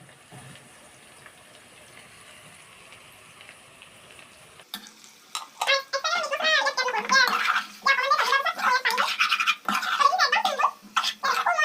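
Spatula scraping and stirring chicken pieces in a metal cooking pan, in quick repeated strokes that start about five seconds in; before that there is only a faint background.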